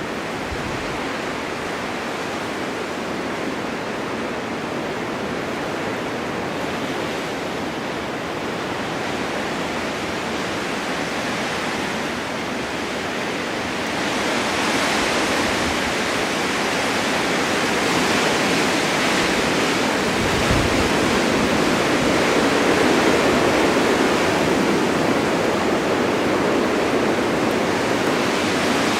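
Blizzard wind driving snow: a steady rushing noise that grows louder about halfway through.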